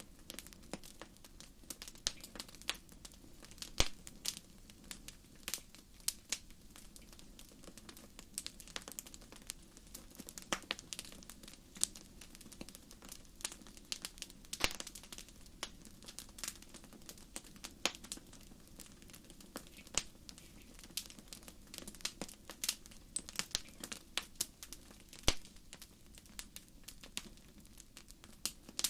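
Wood fire crackling: irregular sharp pops and snaps over a steady low hiss of burning.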